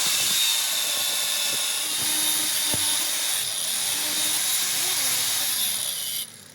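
A loud, steady hiss with a faint high whine in it, from a workshop machine or air jet, cutting off suddenly near the end.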